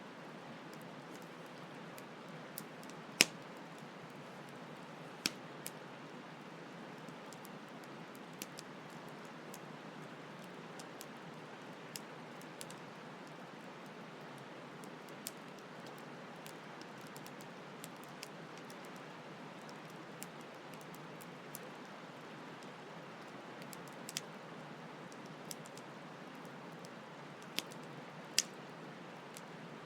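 Campfire crackling, sharp pops at irregular intervals with the loudest about three seconds in and another near the end, over the steady rush of a flowing stream.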